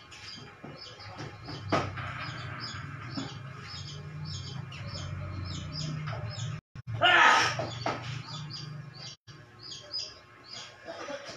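Small birds chirping over and over in short high notes, over a steady low hum. About seven seconds in, a louder noisy sound lasts about a second.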